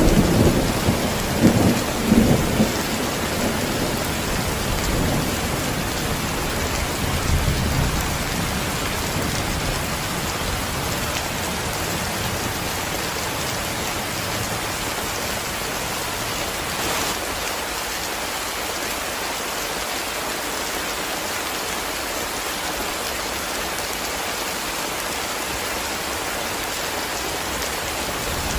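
Heavy rain falling steadily, a dense even hiss, with a low rumble of thunder dying away over the first several seconds.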